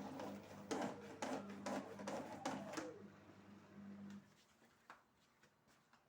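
Light knocks and clatters of household objects being handled, over a steady low machine hum that cuts off about four seconds in.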